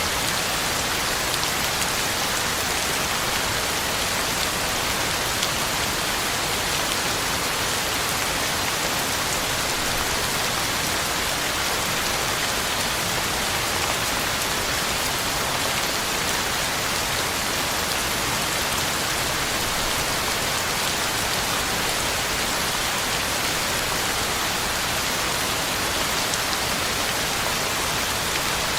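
Heavy, steady rain falling on the ground and leaves, a constant dense hiss of drops with no thunder or other events.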